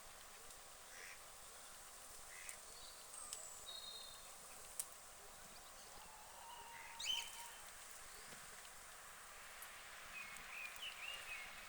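Quiet outdoor ambience with a few faint, short bird calls scattered through it, the loudest a brief call about seven seconds in.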